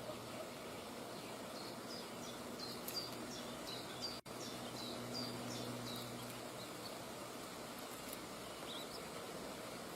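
A bird giving a run of short, high, quickly falling chirps over a steady outdoor background hiss, with a momentary break in the sound about four seconds in.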